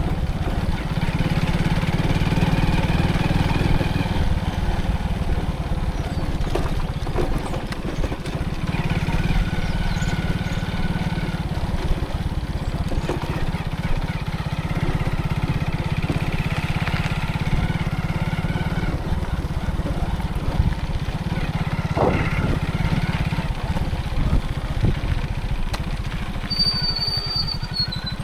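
Motorcycle engine running steadily while riding, with road noise. A brief high tone sounds near the end.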